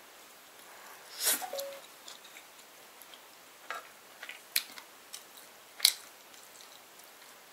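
A quiet small room with a handful of short, scattered clicks and knocks. The loudest comes about a second in and another near six seconds.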